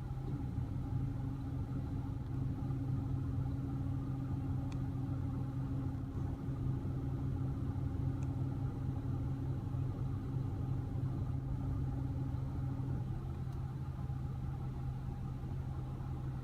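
A steady low mechanical hum, as from an idling vehicle engine, with a second steady tone above it that stops a few seconds before the end.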